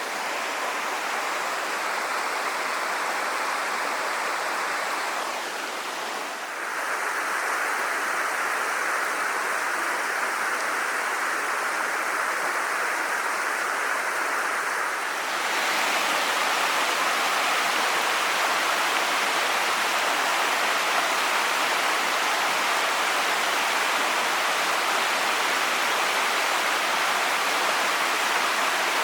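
Steady rush of moving water from a wild river and its falls. The sound changes character twice, about six and fifteen seconds in, each time becoming a little louder and fuller.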